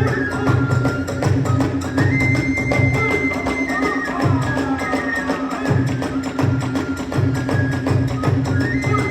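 Kagura festival music (hayashi): a bamboo flute holding long high notes over a fast, steady drum beat and dense percussion.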